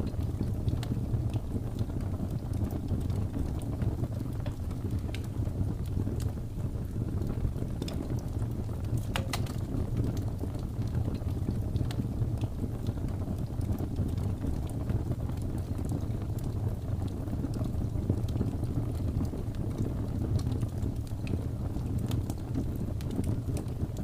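Fireplace fire crackling, scattered small pops with a sharper crack about nine seconds in, over a steady low rush of snowstorm wind.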